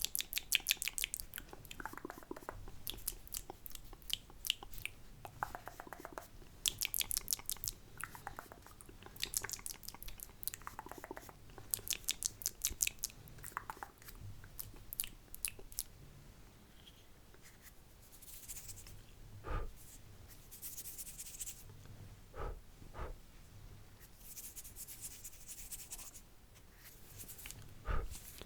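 Close-miked wet mouth sounds: quick runs of tongue clicks and lip smacks in clusters through the first half, then softer hissing mouth sounds with a few single clicks.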